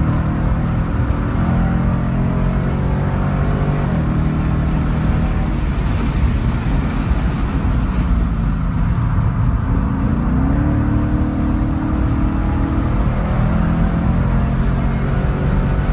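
2015 Ford Mustang's engine running hard at track speed under steady wind and tyre noise. The engine note eases off in the middle under braking, then rises again as the throttle goes back on about ten seconds in.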